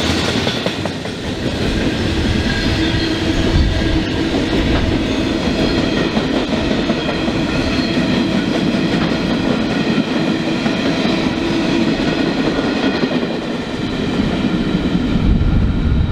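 Freight train wagons, container flats and steel-coil wagons, rolling past at speed: a steady rumble of wheels on the rails with clacking over the rail joints and steady high ringing tones above it.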